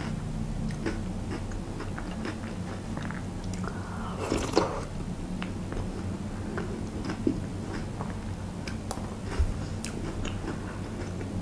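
Close-up chewing and biting of thick yogurt with crunchy cookie-like sprinkle balls, with scattered small clicks, over a steady low hum.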